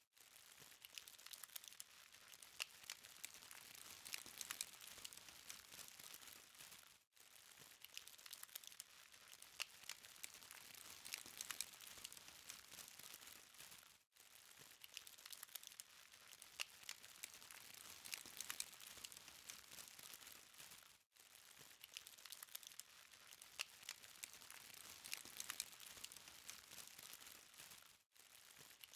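Charcoal fire crackling faintly, with a dense run of small sharp pops and ticks. The sound drops out briefly about every seven seconds.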